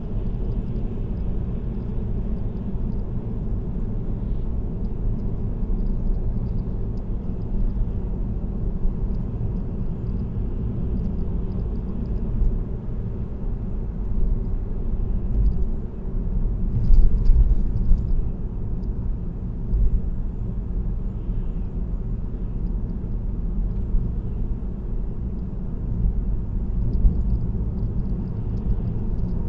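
Steady low road and tyre noise of a car cruising on an expressway, heard from inside the cabin, swelling briefly about two-thirds of the way through.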